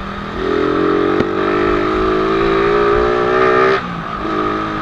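Suzuki Raider R150 carburetted engine accelerating under the rider, its pitch rising slowly for about three seconds. It cuts off abruptly as the throttle closes, then picks up again briefly near the end.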